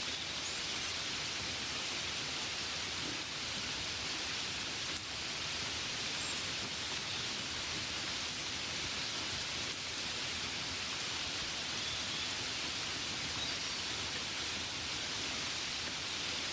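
Gentle rain falling steadily, an even hiss with no breaks.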